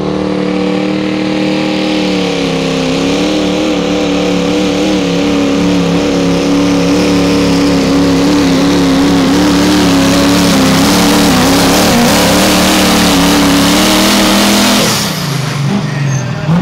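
A 2006 Chevy pulling truck's engine at high revs under load during a pull. Its pitch dips slightly about two seconds in, then holds high and steady before the engine is let off suddenly near the end.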